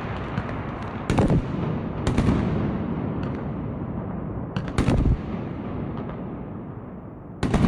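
Sky-shot fireworks going off: four sharp bangs, about a second into the clip, at two seconds, near the middle and near the end, each with an echoing tail. They sound over a continuous rumble of more fireworks bursting further away.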